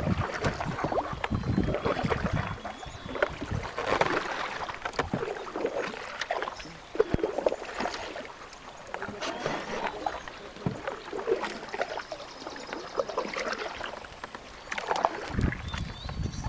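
Canoe paddles dipping and pulling through lake water, with splashing and dripping that swell every couple of seconds and a few sharp knocks. Wind rumbles on the microphone near the end.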